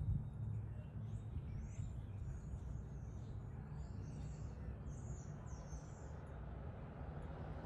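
A steady low rumble with faint, brief bird chirps scattered over it through most of the stretch.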